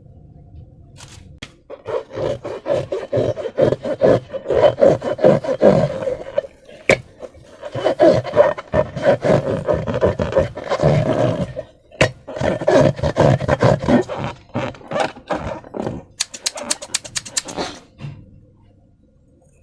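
Slime being squished and worked by hand: dense crackling, squelching sounds in stretches of several seconds, pausing briefly about six and twelve seconds in. A quick run of sharp clicks comes near the end.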